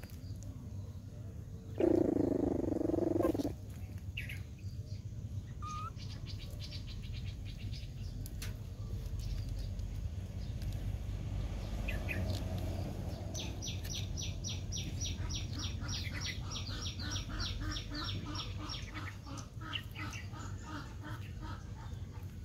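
Outdoor ambience with birds chirping. About two seconds in there is a loud, steady low sound lasting about a second and a half. Past the middle, a fast run of short high chirps, about six a second, goes on for several seconds.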